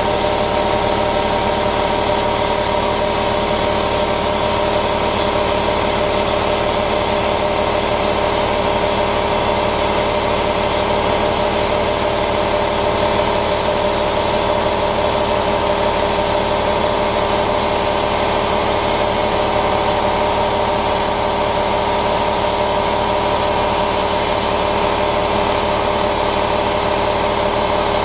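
A shop tool running without a break: an even hiss over a constant hum.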